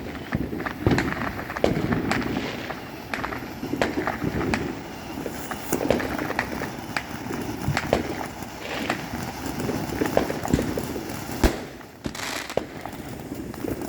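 Fireworks going off: an irregular run of sharp bangs and crackles, with the loudest bang about eleven and a half seconds in.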